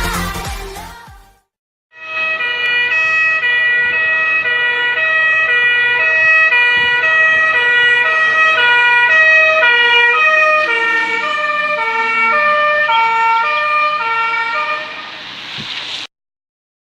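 Emergency vehicle siren sounding a two-tone alternating high and low note, switching about twice a second. It starts abruptly and cuts off suddenly near the end.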